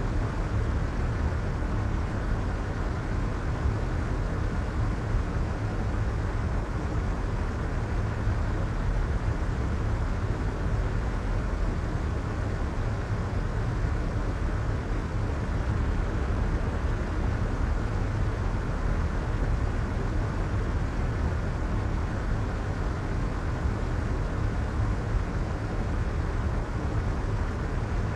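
Steady soft white noise for sleep, with the highs rolled off so it sounds as a deep, even hiss and rumble, without any change.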